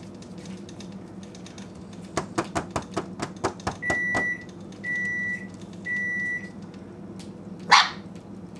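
Microwave oven beeping three times, about a second apart, signalling that the cooking time is up, over a steady low hum and after a quick run of clicks. Near the end a puppy gives one short, loud yelp.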